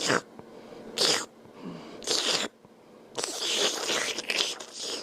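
Wet slurping mouth sounds made by a man, short separate bursts at first, then a quick dense run of them in the second half.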